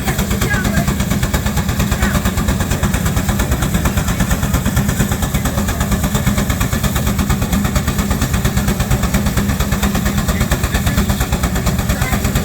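Steam traction engine working hard on a belted Baker fan, its exhaust beating in fast, even chuffs.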